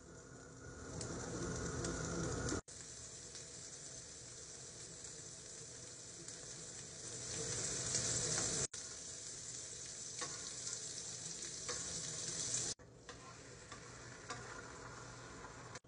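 Food sizzling on a hot flat-top griddle as sausage pieces, pancake batter and beaten eggs go onto it. The sizzle swells louder three times, each time broken off by an abrupt cut.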